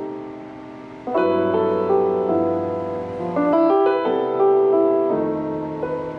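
Piano chords from a slow ballad. New chords are struck about a second in, again past the middle and near the end, each left ringing and slowly fading.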